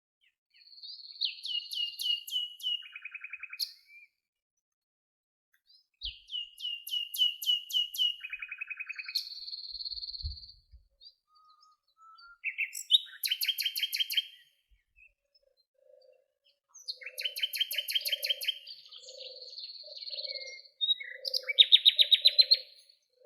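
Songbirds singing: fast, high trilled phrases a few seconds long, repeated about five times with quiet gaps between. From about two-thirds of the way in, a low call repeats roughly twice a second underneath.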